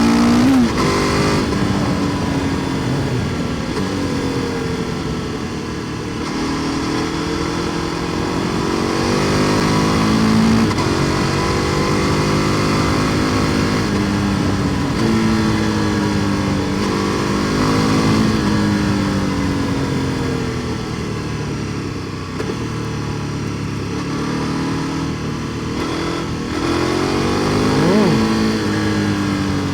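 KTM 1290 Super Duke R Evo's V-twin engine running through an Akrapovič exhaust while riding. Its pitch rises and falls in long sweeps every few seconds as the bike accelerates and slows, with a quick drop and rise near the end.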